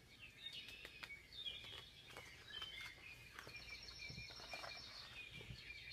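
Faint chirping and twittering of small birds, many quick high calls and short trills overlapping without a break.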